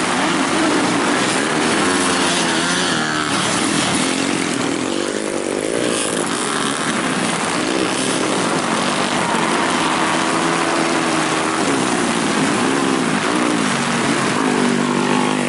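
Several grasstrack racing motorcycles running hard together, their engines revving up and dropping back over and over as the riders open and close the throttle and change gear.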